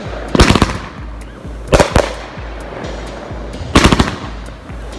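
Firework cake firing aerial shells that burst in the sky. There are three volleys of sharp bangs, each a quick cluster of several reports, about two seconds apart.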